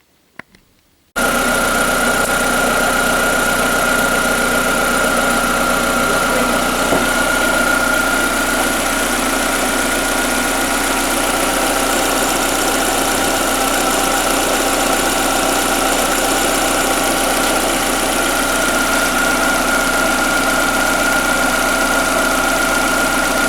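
Freshly rebuilt Skoda Fabia 1.4 16-valve (BKY) four-cylinder petrol engine idling steadily, with a steady high whine over it. It starts about a second in, cut in already running.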